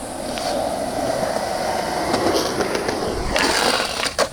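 Skateboard wheels rolling on concrete with a steady rumble, rising into a louder hiss near the end, then a sharp clack of the board about four seconds in.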